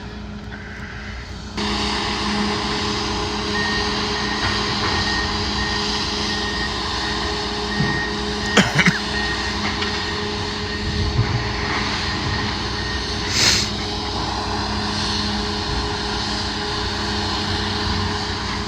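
Heavy demolition equipment's diesel engine running steadily, with its backup alarm beeping at an even pace for several seconds until it stops, a sign the machine is reversing. A couple of sharp knocks stand out over the engine noise.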